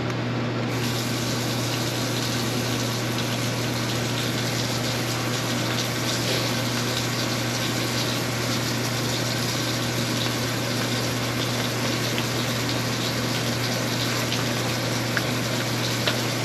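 Water running steadily from a faucet, the flow growing fuller just under a second in, over a steady low hum.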